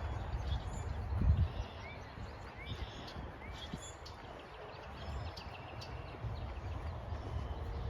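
Birds calling faintly in the background, a few short rising chirps a couple of seconds in, over a steady low rumble of wind and handling noise on the microphone with a bump about a second in.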